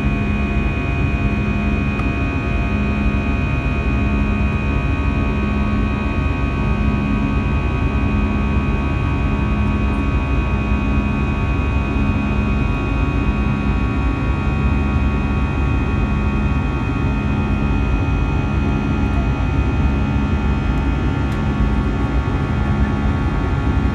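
Airbus A320 jet engines heard from inside the passenger cabin: a loud, steady drone with several steady whining tones over it and a low hum that swells and fades about every second and a half.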